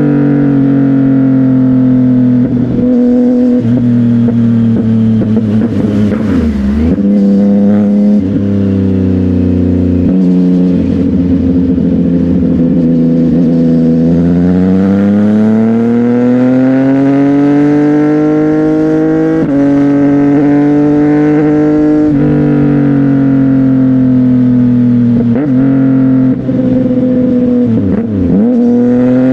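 CFMOTO 675NK's three-cylinder engine through a titanium aftermarket exhaust, heard while riding. The engine note rises and falls with the throttle, with a long dip and climb in the middle and brief sharp drops about seven seconds in and near the end, like gear changes.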